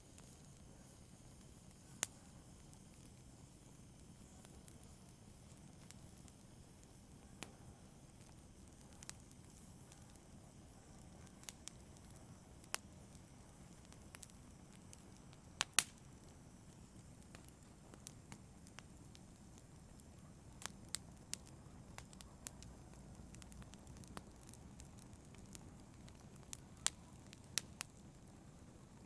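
Wood fire crackling: irregular sharp pops and snaps, a few seconds apart at first and more frequent near the end, over a faint low rush of burning.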